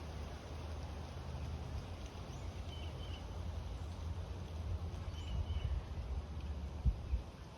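A bird repeating a short, high two-part chirp every couple of seconds over a steady low rumble, with a single soft thump near the end.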